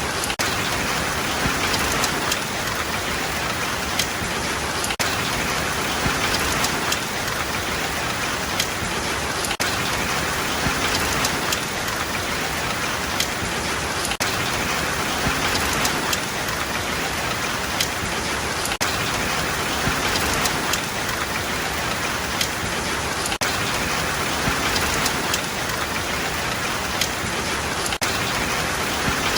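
Steady rain falling, a dense even hiss with individual drops ticking sharply on a surface here and there.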